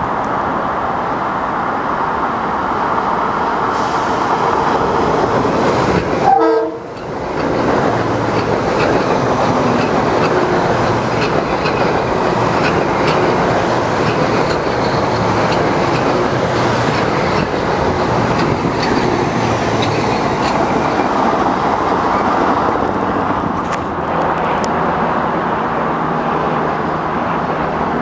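Metro-North commuter train running past on the tracks, a steady noise of wheels on rail. About six seconds in there is a brief, sudden loud sound, then a momentary drop in level.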